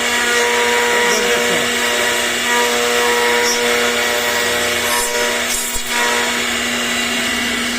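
CNC router carving a 3D name: the spindle runs with a steady whine while the cutter rasps through the material.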